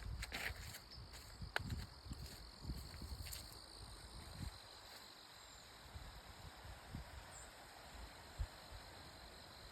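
Faint outdoor ambience with a steady high insect trill, and scattered soft thuds and clicks in the first few seconds.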